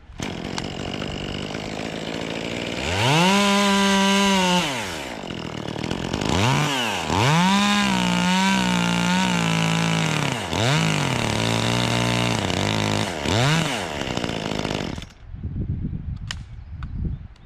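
Echo CS-2511T top-handle two-stroke chainsaw idling, then revved to full speed several times in bursts of one to three seconds, dropping back to idle between them. It shuts off about 15 seconds in.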